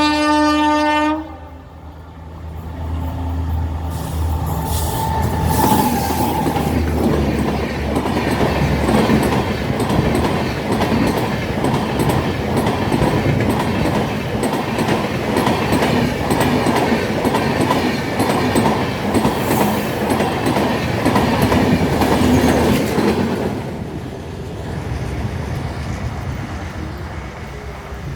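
An electric locomotive's horn gives one blast of about a second, the loudest sound here. Then the train rolls past, its wheels clattering steadily over the rail joints, and the sound fades near the end.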